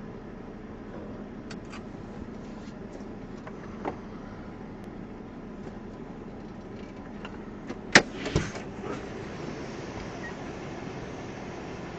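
Steady car noise through a dashcam microphone, with a few faint clicks and one sharp, loud knock about eight seconds in, followed by a smaller one.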